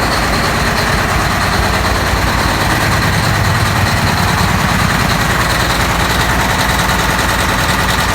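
Caterpillar C32 V12 twin-turbo diesel engine of a generator running steadily after a cold start, a fast, even firing rattle with a steady high tone over it.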